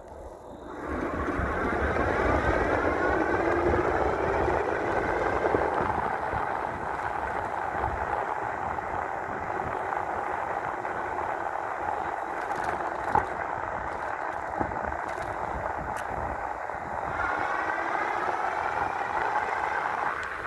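5000-watt electric bike under way: a steady motor whine over tyre and road noise, the whine climbing in pitch as it speeds up about a second in and again near the end.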